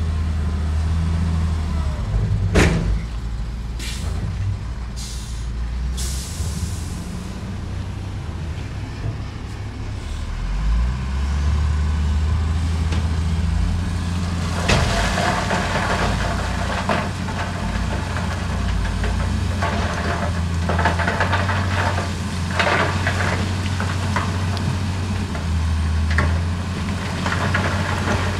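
Heavy diesel earthmoving machinery running with a steady low rumble. A sharp knock comes early, then short hisses typical of air brakes a few seconds in. From about halfway, a dense crackling and rattling of rocks tumbling and scraping.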